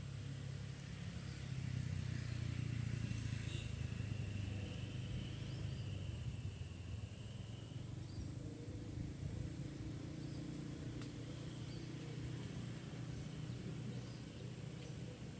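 Low engine rumble of a vehicle going past, swelling about two seconds in and slowly fading, with a faint high steady tone for a few seconds in the middle.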